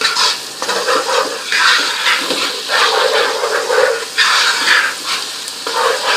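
Sliced onions, garlic-ginger paste and cumin seeds frying in hot oil, sizzling in uneven surges as they are stirred.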